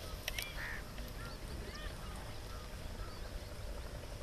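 Birds chirping repeatedly in short calls over a steady low rumble, with a few sharp clicks in the first half second.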